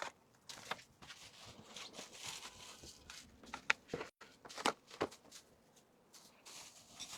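Small packaged items being handled: plastic wrapping crinkling, with a scatter of light clicks and taps, a few sharper ones about midway.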